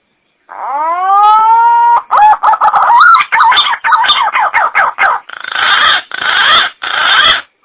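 Green pigeon (punai) calling: a rising, drawn-out whistled note, then a quick run of wavering warbled notes, ending in three harsh rasping notes.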